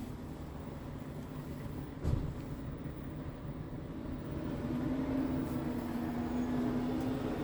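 Scania R tractor unit's diesel engine running steadily, with a single knock about two seconds in; from about halfway through, a steady hum comes in and the sound grows louder.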